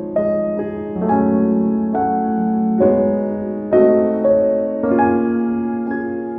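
Background piano music: slow, gentle notes and chords struck about once a second, each ringing out and fading.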